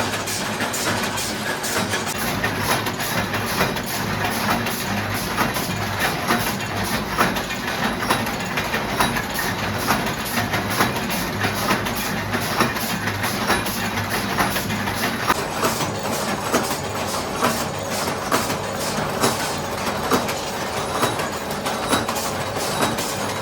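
Factory machinery running steadily with a rapid, irregular metallic clatter, several clicks and knocks a second over a constant machine noise.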